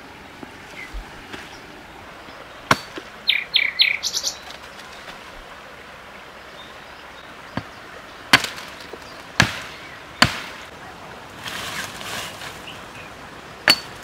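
A bird chirps in a quick run of short high notes a few seconds in, and five sharp knocks ring out at irregular intervals against an outdoor background hiss.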